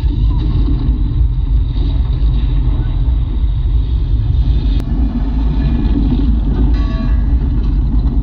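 Earthquake rumble sound effect played loud through a home speaker system with subwoofer: a heavy, continuous deep bass rumble.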